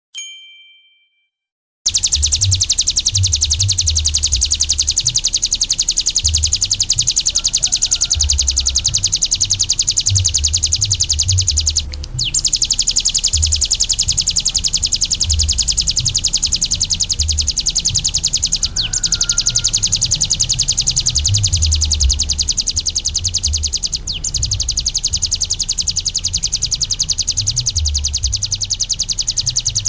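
A short chime rings and fades, then about two seconds in a ciblek gunung prinia starts singing a fast, unbroken, high-pitched trilling song. The song breaks off briefly three times, and a low rumble runs underneath it.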